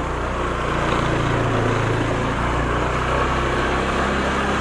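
Motorcycle engine running steadily while riding at low speed, with wind and road noise.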